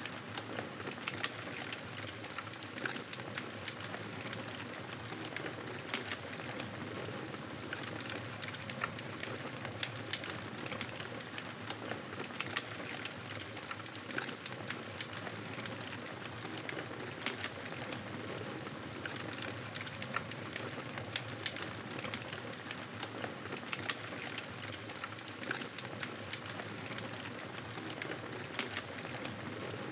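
Campfire crackling: a steady hiss of burning wood with many small, sharp pops throughout.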